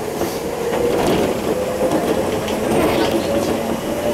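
Enoshima Electric Railway (Enoden) train running, heard from inside the carriage: a steady rumble of wheels on the rails with a faint whine that slowly rises in pitch.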